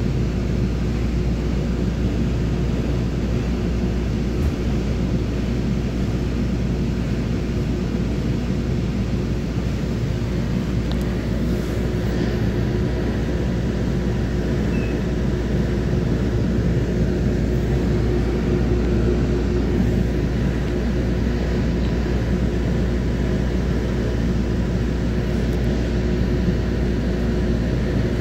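Inside a commuter train coach: a steady low rumble with a constant hum over it as the train runs slowly along a station platform.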